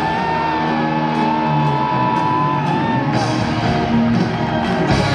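Live rock band with orchestra playing loudly: an electric guitar holds a long high lead note, bending it at the start and again about three seconds in, over the full band.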